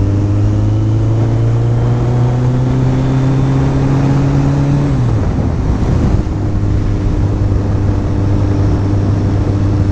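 Kawasaki ZX14R's inline-four engine running under way, its pitch climbing slowly for about five seconds, then dropping with a gear change and holding steady, with wind noise throughout.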